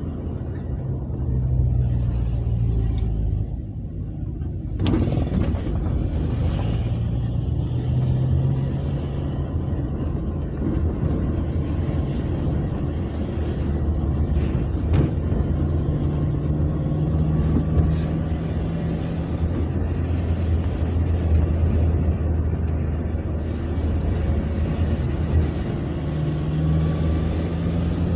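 Ambulance driving, heard from inside its cabin: a steady low engine hum with road noise, the engine note shifting in pitch now and then.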